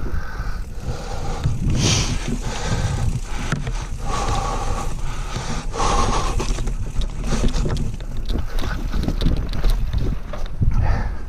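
Wind buffeting the microphone during a mountain bike ride, over a steady rumble of tyres on a dirt trail with frequent small clicks and rattles from the bike.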